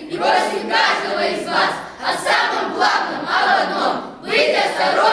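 A group of young voices chanting loudly in unison, in short rhythmic phrases, likely the troupe's closing slogan.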